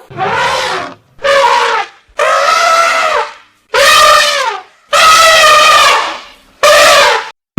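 An animal calling six times in a row, each call lasting under a second to just over a second, its pitch rising and then falling away at the end.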